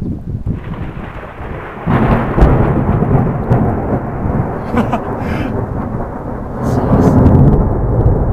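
A loud, long peal of thunder during a thunderstorm. It breaks about two seconds in as a deep rumble, stays strong, and swells again near the end, with rain falling.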